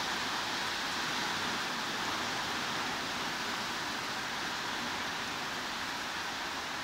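Heavy rain as a steady, even hiss with no single drops standing out.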